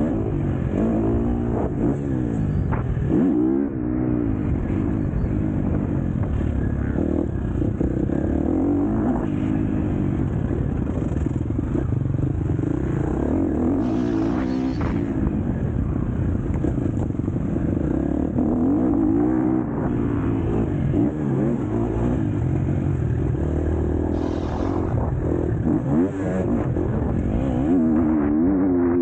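KTM SX-F four-stroke motocross bike's engine revving up and down over and over as it accelerates and shuts off around a track, with short knocks and clatter between.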